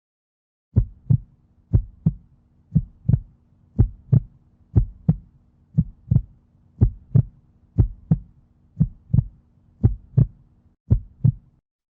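Heartbeat sound effect: a double thump, lub-dub, about once a second, eleven beats in all, over a faint low hum. It starts about a second in and stops just before the end.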